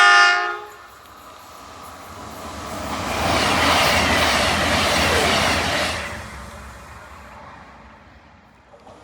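A train horn sounds briefly at the start. A train then passes, its noise swelling over a couple of seconds, holding and fading away.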